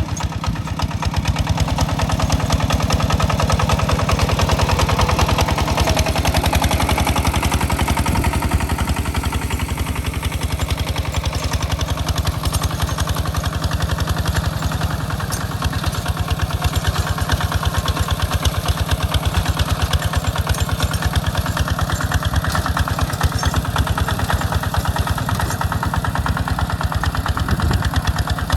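Hinota two-wheel walking tractor's single-cylinder diesel engine chugging steadily with rapid, even beats while plowing a rice paddy.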